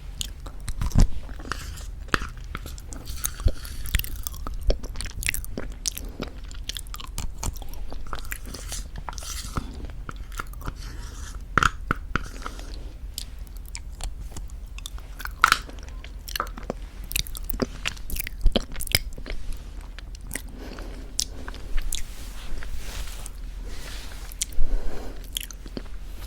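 Close-miked mouth sounds of eating very thick Greek yogurt with honey: irregular sticky smacks and wet clicks, some sharper and louder than others.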